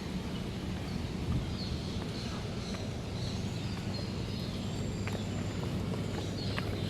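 Birds chirping faintly over a steady low hum, with a few light ticks near the end.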